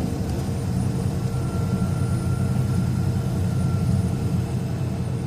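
Steady engine and road rumble inside a moving truck's cab at highway speed.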